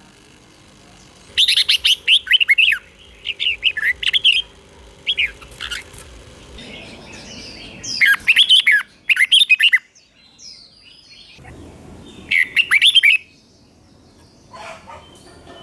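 Red-whiskered bulbul singing: short, quick phrases of bright, jumping notes, about five phrases separated by pauses of one to three seconds.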